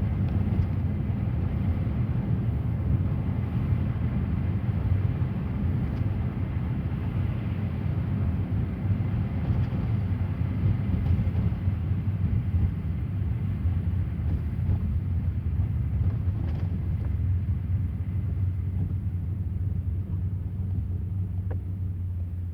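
A car running with a steady low rumble of engine and road noise, which eases off near the end.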